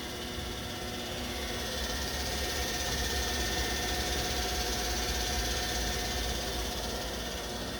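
Hurco VM10i vertical machining center running its warm-up cycle: a steady machine running sound with a few held tones, growing a little louder through the middle and easing off toward the end.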